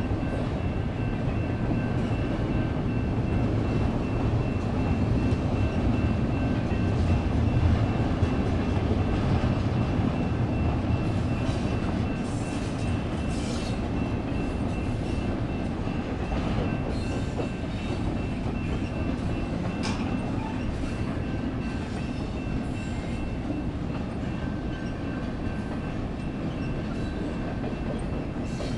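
Intermodal freight train rolling through the crossing: a steady rumble and clatter of wheels on the rails, loudest a few seconds in and then easing slightly. A steady high-pitched ringing tone carries over it.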